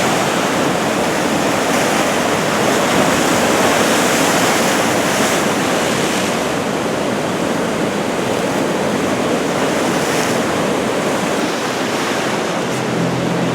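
Ocean surf: head-high waves breaking along the shore in a steady, continuous wash of surf noise.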